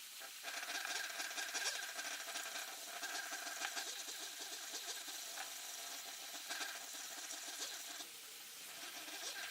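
A small machine running steadily with a continuous clicking rattle, easing off about eight seconds in and starting up again near the end.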